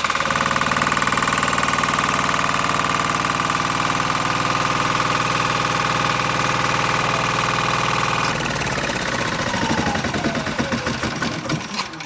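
Diesel engine, started by an Ecycle brushless motor-generator, running steadily with a high whine on top. About eight seconds in the steady note and the whine stop, and the sound turns rougher and uneven, with a whine falling in pitch.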